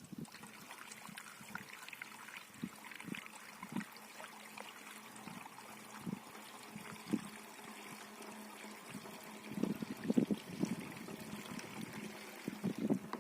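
Irrigation water trickling and splashing, a steady running hiss broken by irregular low splashes that come thicker about ten seconds in and again near the end.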